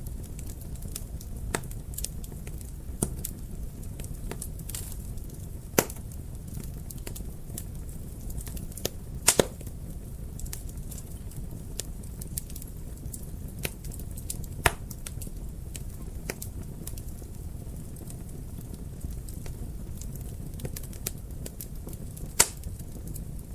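Wood fire in a fireplace crackling: a low, steady rumble of the flames under scattered sharp pops and snaps. The loudest snaps come about six seconds in, as a quick double about nine seconds in, at about fifteen seconds and at about twenty-two seconds.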